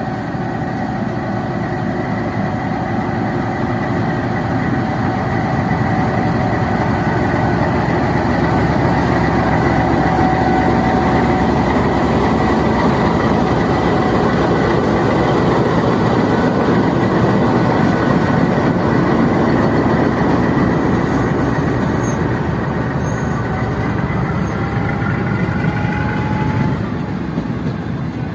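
Green Line Express passenger train moving off on departure: a loud, steady rumble of the train running, with a faint whine held over it. Near the end the whine rises in pitch and the rumble eases slightly.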